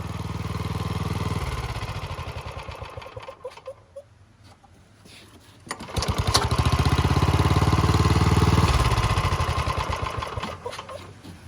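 Small engine of an Iwata COMG L22-10 engine-driven air compressor running, then slowing and stopping. About two seconds later it starts again with a few clicks, runs loudly and steadily for a few seconds, then winds down and stops near the end.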